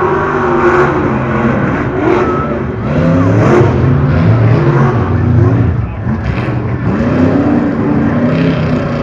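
Engines of modified tough trucks running hard, revving up and dropping back again and again, with more than one engine heard at once.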